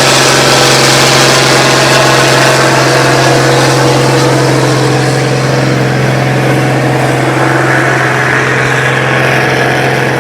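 Antique farm tractor engine running steadily, with a constant low drone.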